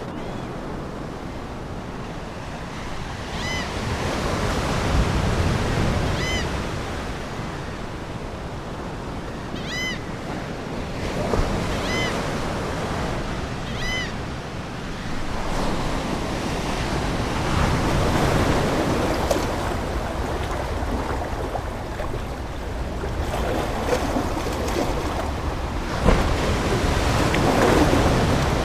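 Ocean waves washing ashore in slow swells that rise and fall every several seconds. Seagulls give five short calls in the first half.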